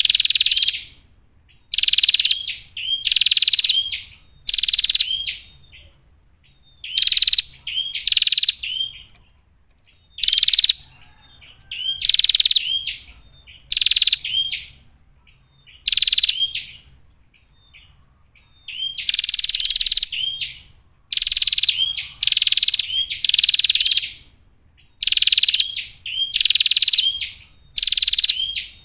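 Female prinia (prenjak) calling: short, buzzy, rattling calls of under a second each, repeated every second or two with a few longer pauses between runs.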